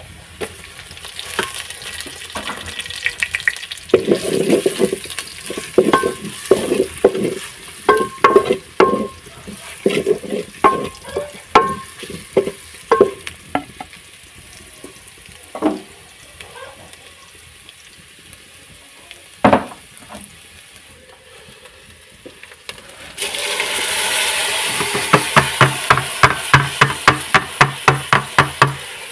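Grated carrots sizzling in hot oil in a steel pot while a wooden spatula stirs and scrapes against the pot in quick strokes, with a couple of single knocks. Near the end rice is poured in; a louder hiss starts, with a fast run of clicks.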